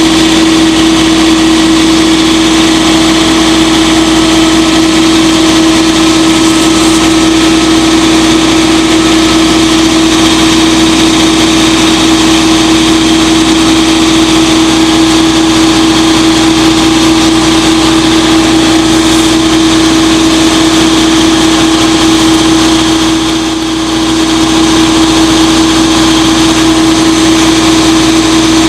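An engine idling steadily, with a strong constant hum that dips briefly about 23 seconds in.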